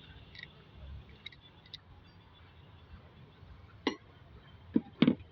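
A few sharp clinks of hard objects knocked together, one about four seconds in and two close together near the end, over a faint steady background.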